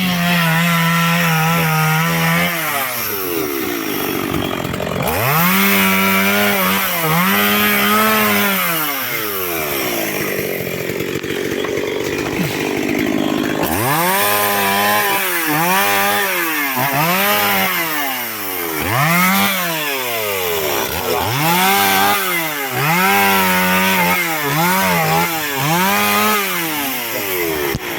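Two-stroke chainsaw cutting firewood logs, the engine revving up and falling back again and again as it cuts, with a quieter lull about ten seconds in before a quick run of revs.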